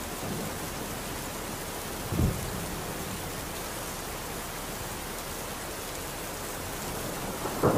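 Steady rain with thunder: a brief low thump about two seconds in and a louder low rumble building near the end.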